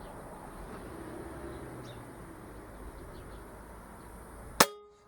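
A single sharp report of an Air Arms S410 .22 (5.5 mm) PCP air rifle firing near the end, with a brief ring after it; before the shot only faint background noise.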